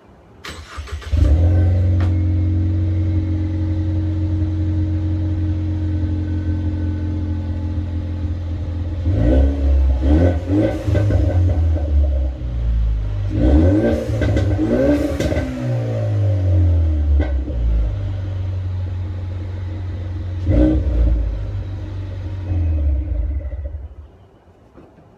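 2015 Ford Mustang EcoBoost's 2.3-litre turbocharged four-cylinder, breathing through a Flowmaster Super 44 cat-back exhaust with the resonator replaced by a Y-pipe, starting about a second in and idling steadily. It is revved several times in the middle, the pitch rising and falling with each rev, blipped once more later, then shut off near the end.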